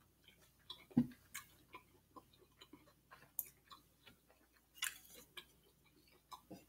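A person chewing food close to the microphone: faint, irregular wet smacking and clicking mouth sounds, with a short louder hiss about five seconds in.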